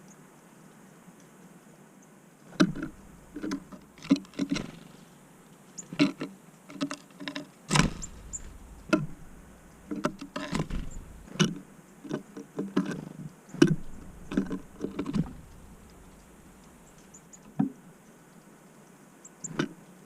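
Tits at a peanut feeder, pecking and tapping at the peanuts and clinging to the feeder. The taps and knocks come in irregular clusters, with a few quieter seconds near the start and toward the end.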